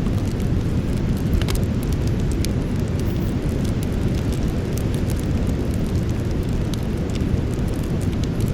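Campfire burning: a steady low rushing roar with scattered sharp crackles and pops of burning wood, a small cluster of them about a second and a half in.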